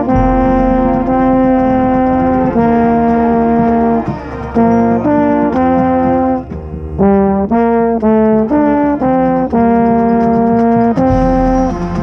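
Marching band brass playing its show music, with a marching baritone close by: long held chords, a brief drop about four seconds in, then a run of short, quicker notes before the held chords return.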